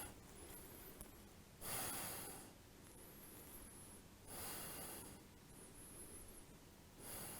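A person's slow, deep breaths close to the microphone: three hissing breaths, each lasting under a second and spaced about two and a half seconds apart, held in a yoga stretch.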